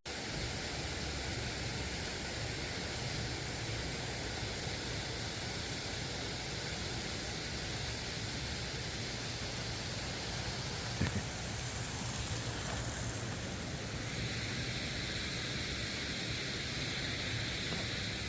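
Steady hissing background noise, with one short click about eleven seconds in.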